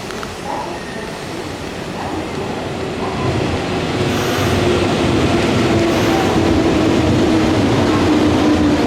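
Nankai electric train running along the station platform, its rumble growing steadily louder. A steady high tone, from the wheels or motors, sinks slightly in pitch near the end.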